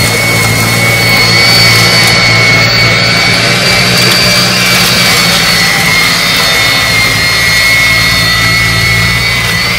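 Snow blower's engine running steadily at high speed, with a steady high-pitched whine over the low engine hum.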